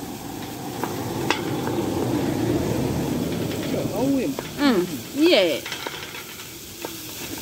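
Diced pumpkin and vegetables sizzling in oil in a frying pan while a wooden spoon stirs and scrapes them. The sizzle swells over the first few seconds, and a few short gliding pitched sounds cut in about four to five and a half seconds in.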